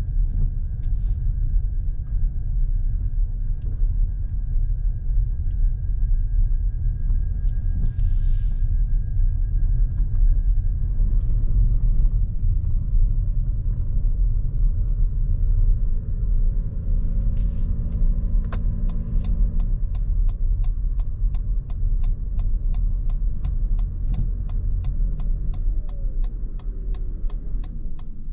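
Steady low road and tyre rumble inside the cabin of a Lexus NX350h hybrid SUV on the move. In the last third a rapid, even ticking starts, about three ticks a second, like a turn-signal indicator.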